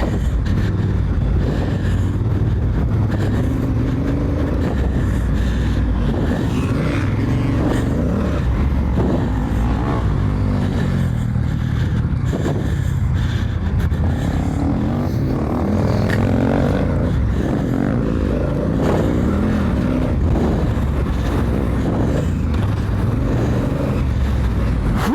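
Honda Africa Twin's parallel-twin engine running under throttle while riding, its pitch rising and falling again and again as the rider revs on and off.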